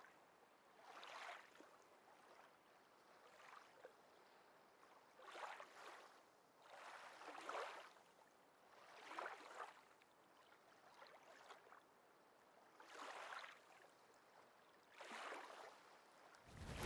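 Faint small waves washing onto the shore, in soft swells of surf about every two seconds.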